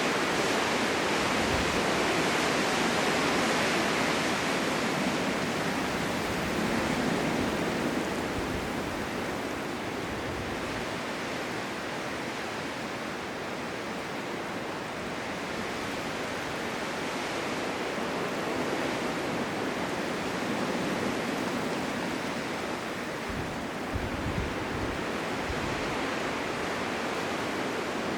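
Blizzard wind blowing as a dense, steady rushing hiss. It eases slightly midway and builds again towards the end.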